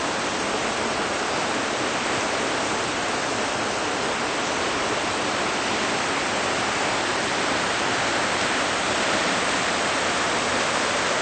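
Steady, even rushing noise, like running water, holding the same level throughout.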